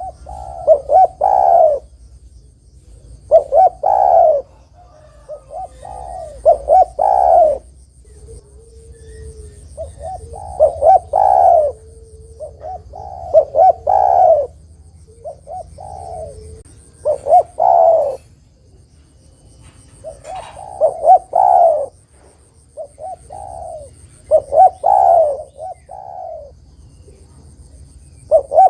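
Spotted dove (tekukur) cooing over and over, each phrase a quick run of several coo notes, repeated about every two to three seconds.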